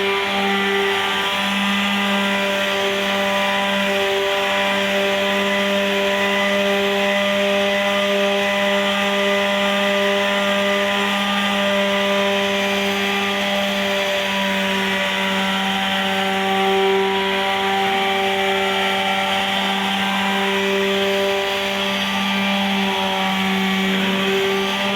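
Handheld electric power tool running steadily at one speed while sanding body filler, its motor giving a constant whine over a rasping grind.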